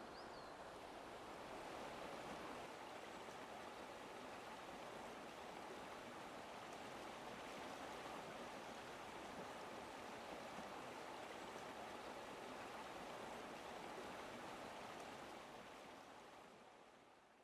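A river running over rocks: a steady, faint rushing of water that fades out near the end.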